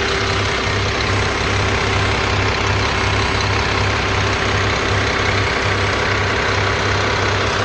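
Mack MRU613 garbage truck's diesel engine idling steadily with an even low pulse, warm after half an hour's running and sounding healthy.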